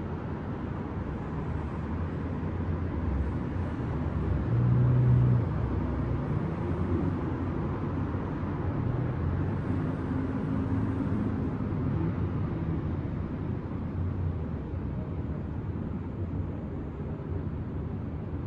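City traffic at night: a steady low rumble of distant road traffic. One vehicle's low engine hum swells louder for about a second, roughly five seconds in.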